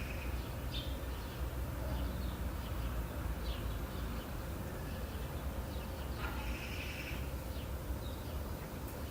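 Outdoor nature ambience: scattered short, high bird chirps over a steady low rumble, with a longer buzzy call about six seconds in.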